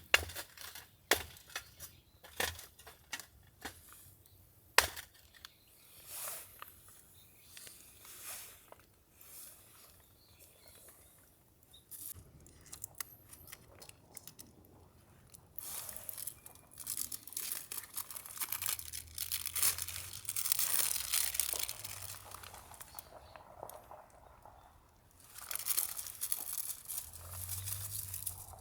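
Crinkling, rustling and tearing, as of paper or plastic being handled, with a few sharp clicks and knocks in the first seconds and longer spells of crinkling from about halfway on.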